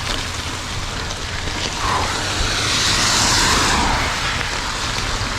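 Riding noise from a mountain bike on a wet trail in the rain: wind rumbling on the action camera's unshielded microphone, with the hiss of tyres and rain. The hiss swells louder for a second or two in the middle.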